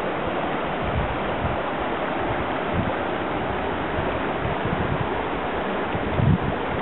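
Steady rushing outdoor noise, with gusts of wind buffeting the microphone in irregular low thumps, the strongest near the end.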